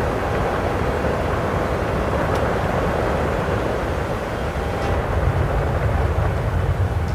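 Boeing 737 cabin noise during the climb after takeoff: a steady roar of jet engines and airflow, with the low rumble growing heavier about five seconds in.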